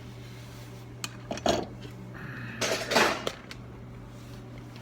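Metal tools clinking on a workbench: a few sharp clicks, then a louder clatter about three seconds in, over a steady low hum.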